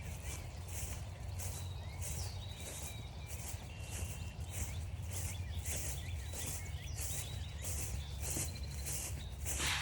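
Footsteps crunching through frost-stiffened grass at a steady walking pace, about two steps a second, with small birds chirping. Near the end comes one louder crunch.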